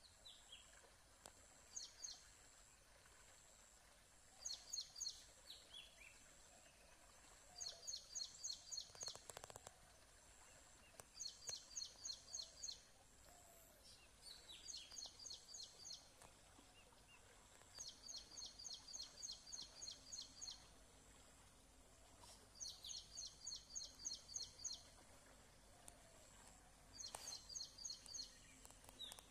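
A bird singing: short phrases of quick, high, repeated notes, about five notes a second, given over and over every few seconds, with a few single short falling calls between them.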